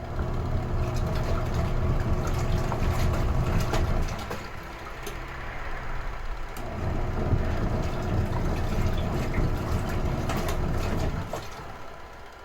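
Retro-style washing machine's motor running during a wash cycle, over water churning in the tub. The motor drops out about four seconds in, starts again a couple of seconds later and winds down near the end, the on-off rhythm of the agitator.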